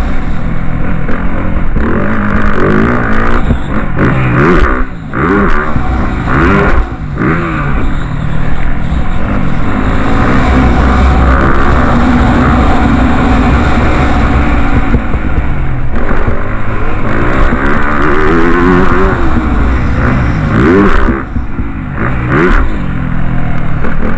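Motocross bike engine revving hard. Its pitch climbs and falls again and again as the throttle is opened and shut, with a few brief dips in level.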